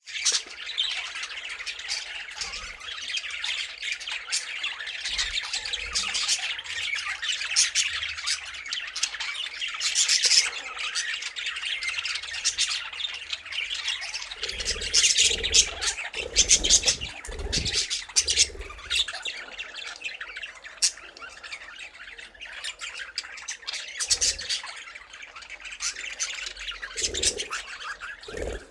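A group of budgerigars chattering and squawking, a continuous stream of rapid warbles, chirps and harsh calls, with a few low bumps partway through and again near the end.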